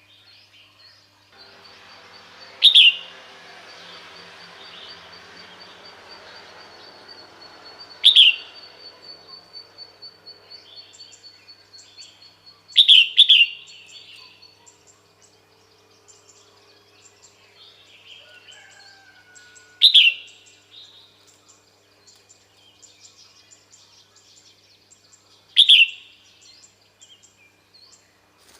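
Female red-whiskered bulbul giving short, sharp calls that drop in pitch, about one every five or six seconds, with a quick double call near the middle. It is the female's call that draws males in; a faint hiss and a thin, high ticking trill run under the first half.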